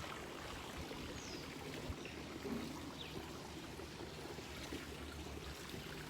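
Steady, faint trickle of running water, with a couple of faint high chirps.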